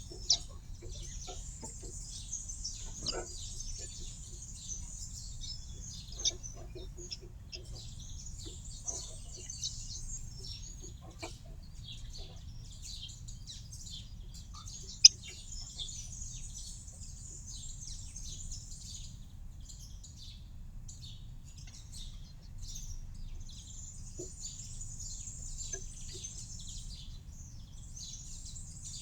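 Small garden birds chirping and twittering continuously in a dense, high-pitched chorus. A few sharp clicks stand out, the loudest about halfway through.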